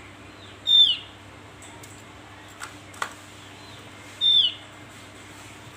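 Javan grey-throated white-eye (opior jawa) calling: two short, loud, falling calls about three and a half seconds apart, over a steady low hum, with a couple of faint clicks between them.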